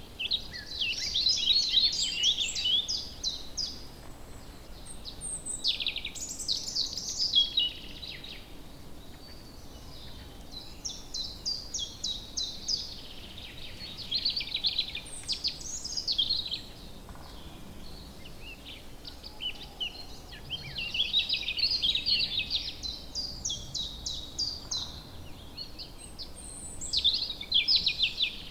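Songbirds singing in woodland: repeated phrases of rapid, high chirping notes, each lasting a few seconds with short pauses between, over a faint steady background hiss.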